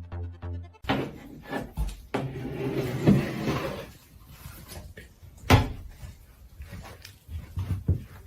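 Scattered knocks, bumps and rubbing, like a cupboard door or drawer being handled, with one loud knock about five and a half seconds in. A few notes of music play briefly at the start.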